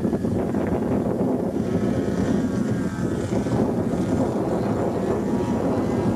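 Radio-controlled model floatplane flying, its propeller motor heard faintly as a thin steady tone under heavy wind rumble on the microphone.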